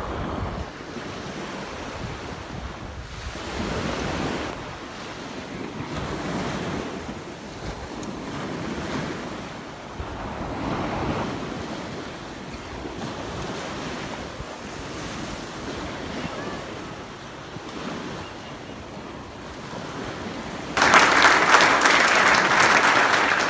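Surf washing onto a beach, swelling and ebbing every few seconds, with wind buffeting the microphone. Near the end a sudden, much louder burst of applause comes in.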